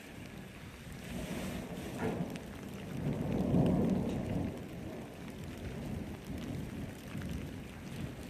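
Thunder rumbling over steady rain: the rumble builds about a second in, is loudest around three to four seconds in, then fades.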